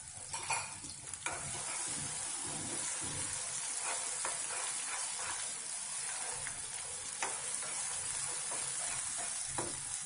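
Ground raw-mango and coconut paste frying in oil in a kadai, sizzling steadily while a spatula stirs it, with a few sharp taps of the spatula against the pan. The paste is being sautéed to cook off its raw smell.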